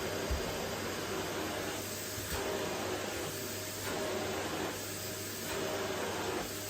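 Vacuum cleaner running with a steady airflow rush and a faint motor whine. Its noise dips and swells regularly, about every second and a half.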